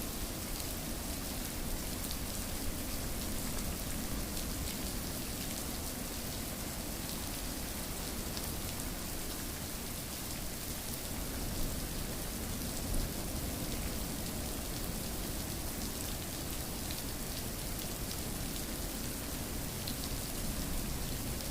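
Steady rain falling: an even hiss with fine scattered drop ticks, and two slightly louder taps about halfway through.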